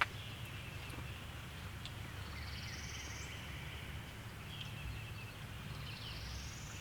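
A small songbird singing a short buzzy trill that rises in pitch, three times about three seconds apart, with a few faint chirps from other birds and a low steady rumble beneath.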